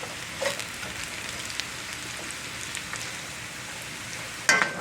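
Sliced potatoes and onions sizzling and crackling in hot oil in a cast iron skillet. A sharp clank sounds near the end.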